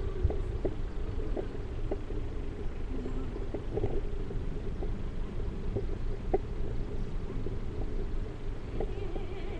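Riding noise from a moving bicycle: steady wind rumble on the microphone with a low wavering hum and scattered light clicks.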